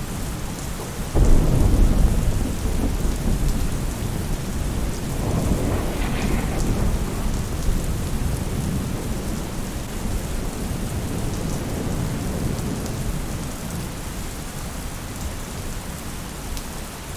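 Steady rain falling on a roof, with a sudden low roll of thunder about a second in that swells again a few seconds later and slowly dies away.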